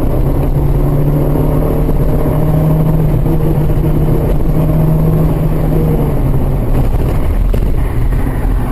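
Car engine and road noise heard from inside a moving car: a steady low drone that fades about six seconds in, leaving rumbling road noise.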